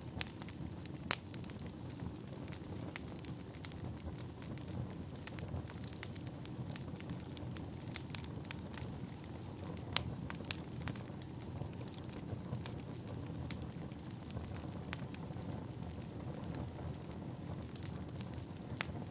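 Firewood burning: a steady low rush of flame with sharp, irregular crackles and pops, a couple of them louder than the rest.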